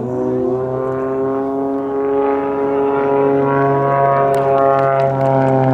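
Propeller-driven aerobatic plane flying overhead: its piston engine and propeller make a steady, loud tone whose pitch rises slightly and then bends down again as it manoeuvres.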